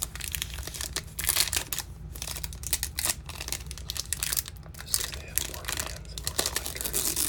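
Plastic trading-card pack wrapper crinkling and tearing as it is handled and opened, in irregular rustles with louder bursts about a second in and near the end. A steady low hum runs underneath.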